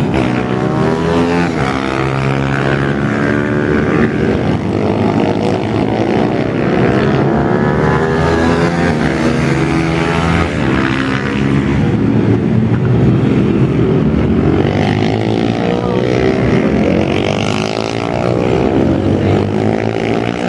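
Several pit bike engines revving up and down as the bikes race, their overlapping pitches rising and falling continuously.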